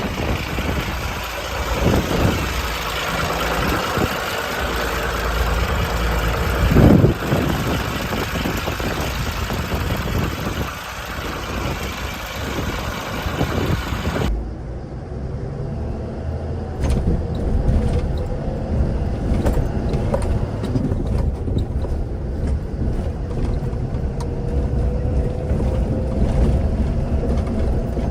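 Wing-body truck's diesel engine running, with scattered knocks and a hissy wash over it at first; about halfway through the higher sounds cut off suddenly, leaving a low steady engine rumble with a slowly rising tone near the end.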